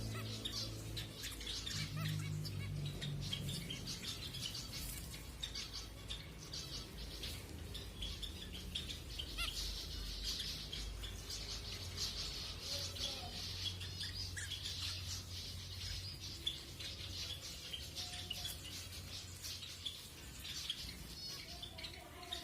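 A group of zebra finches chirping and calling constantly, with many short, overlapping high calls, over a low steady hum.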